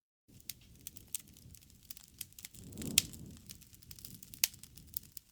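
Campfire crackling: irregular sharp pops and snaps over a low, steady rumble of burning wood, with one louder pop about three seconds in. The sound drops out completely for a moment right at the start.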